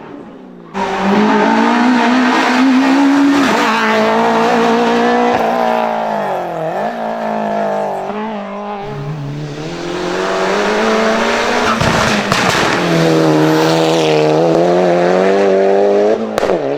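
Hill climb race car engine revving hard, its pitch rising through the revs and dropping sharply at gear changes or when the throttle is lifted, with a few sharp pops. It starts abruptly about a second in.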